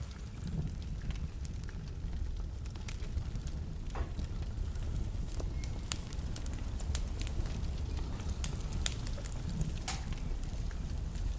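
Wood fire burning in a fireplace: a steady low rumble of the flames with irregular sharp pops and crackles from the burning logs.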